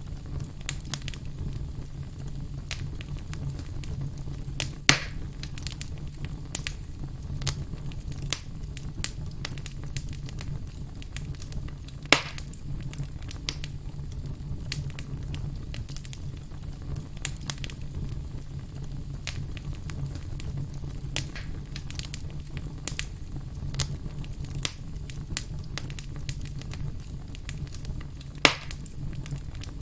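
Firewood logs burning with a steady low hum underneath and frequent small crackles, broken by three sharp loud pops, about five seconds in, at about twelve seconds, and near the end.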